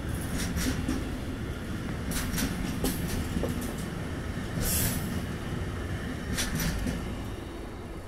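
Slow freight train of intermodal and tank-container wagons rolling past, its wheels rumbling on the rails with several brief high screeches. The sound fades as the last wagon goes by near the end.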